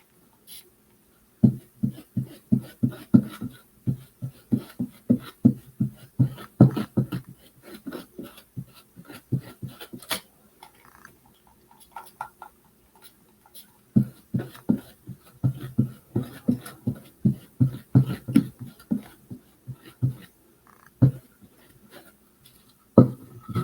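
Paint sponge being dabbed rapidly against a wooden birdhouse: quick, regular taps about four or five a second, in two long runs with a pause between.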